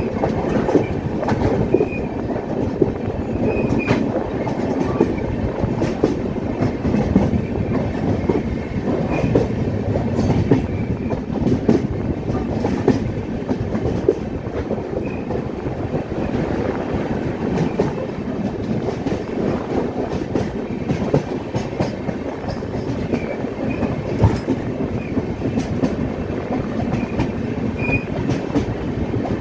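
Passenger train running along the track with a steady noise of wheels and carriages. Wheels click over rail joints at irregular intervals, and short high squeals come and go.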